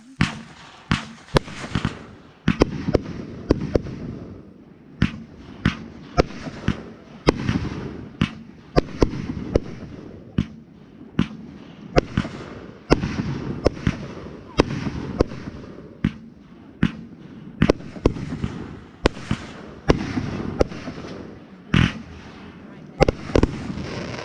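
Smart A** Fireworks' Big Attitude multi-shot firework firing its sequence: a long run of sharp bangs, unevenly spaced about half a second to a second apart, with a steady rushing noise between them.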